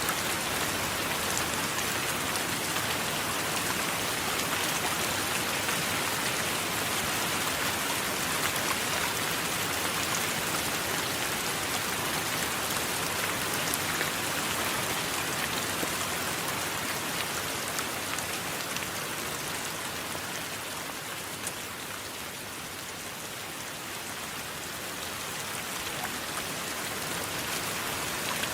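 Steady rain falling, an even dense hiss with scattered drop ticks, easing a little about two-thirds of the way through and building back up near the end.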